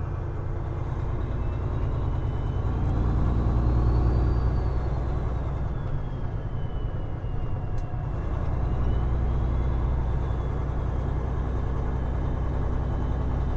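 Peterbilt 389 glider's diesel engine running steadily under way, with a thin whine that rises in pitch, peaks about four seconds in, then falls away as the engine's note drops and builds again.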